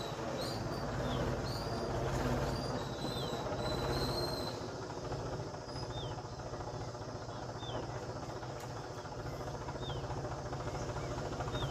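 Steady low rumble with short, high bird calls that fall in pitch, one every second or two, and a few brief chirps above them in the first few seconds.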